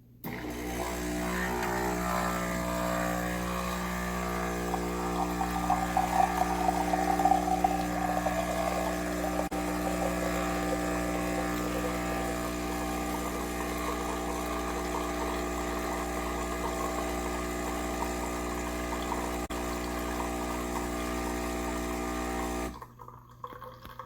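The Nespresso Gran Lattissima's pump runs with a steady, loud hum as it pumps water to dispense a drink. It cuts off abruptly near the end.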